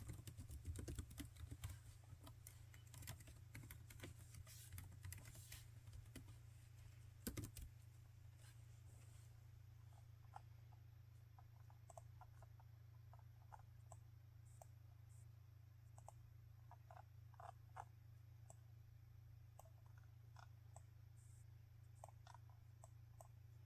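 Typing on a laptop keyboard: a quick run of keystrokes ending in a louder tap about seven seconds in, then only scattered single clicks, under a steady low hum.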